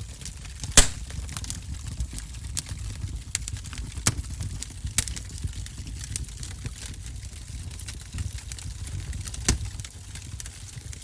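Wood fire burning in a fireplace: a steady low rumble of flame with irregular sharp crackles and pops, the loudest pop about a second in.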